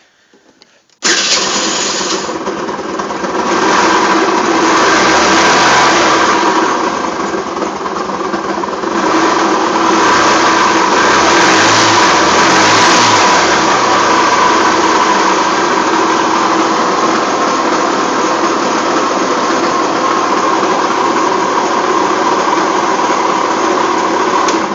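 Rex RS 500 scooter engine starting about a second in, revved up and back down twice, then left running steadily.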